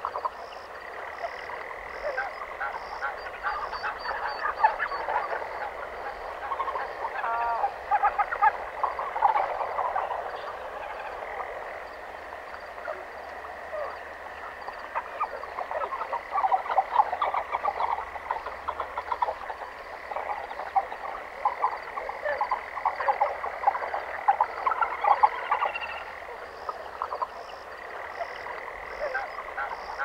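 Jungle ambience carried by a dense chorus of frogs croaking. The chorus thins out about halfway through, then builds again, over a steady high-pitched drone and a faster pulsing high chirp.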